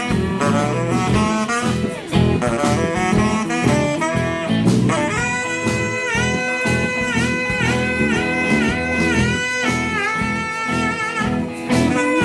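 Live rock band playing an instrumental jam with drums, bass and guitar. A lead instrument plays quick runs of notes, then from about halfway holds long notes that bend down and back up.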